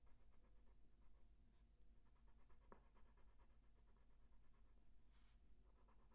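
Faint scratching of a Castle Arts colored pencil shading on paper in quick short strokes, with a soft tick near three seconds and a short hiss about five seconds in.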